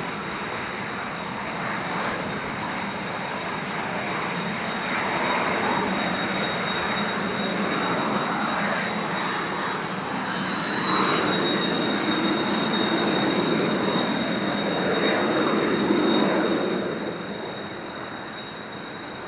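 Turbofan engines of Kawasaki T-4 jets running on the ground with a steady high whine, under heavy gusty wind noise on the microphone. About halfway through, the whine drops in pitch and then holds, and the overall sound dies down near the end.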